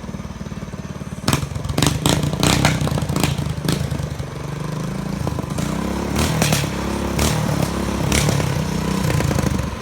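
Mini bike's small engine revving up and down through a custom exhaust, with sharp backfire pops and cracks from the exhaust. The pops come in a quick run in the first few seconds, then singly as the revs rise and fall.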